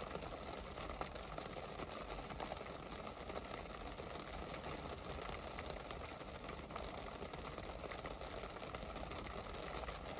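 Steady rain falling: an even hiss of drops with many faint, irregular ticks.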